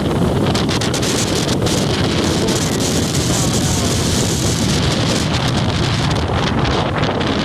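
Strong wind buffeting the microphone: a loud, steady rumbling wind noise.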